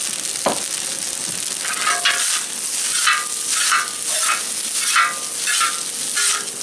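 Pork lo mein (noodles, pork and carrots) sizzling steadily in hot oil in a discada, stirred and scraped in strokes a little under twice a second from about two seconds in.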